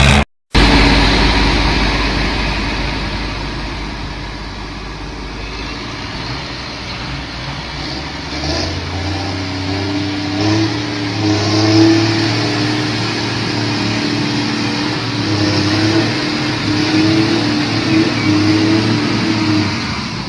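Heavy vehicle engine running under load, its pitch wavering a little as it revs. The sound cuts out briefly just after the start.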